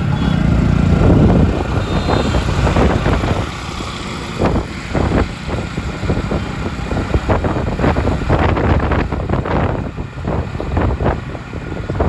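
City road traffic: motor vehicle engines running, with a nearby engine loud in the first second or so before it fades. Repeated gusts of wind noise on the microphone follow.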